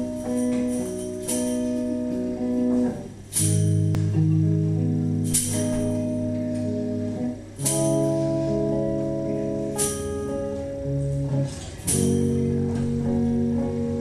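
Acoustic guitar playing slow strummed chords, a fresh strum about every two seconds, each left to ring. The chord changes roughly every four seconds.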